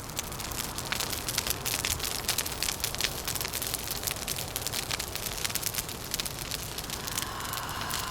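Wood fire crackling with dense, quick pops over a steady low rumble of wind. Near the end a faint hollow tone joins in, like wind whistling.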